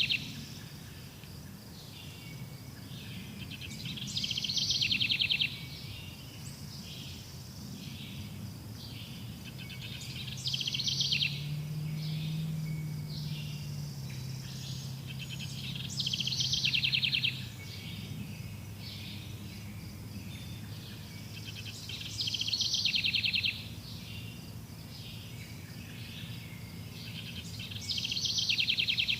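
Forest birdsong: a loud, fast trill lasting about a second and a half comes back roughly every six seconds, with softer chirps and calls in between and a low steady hum underneath.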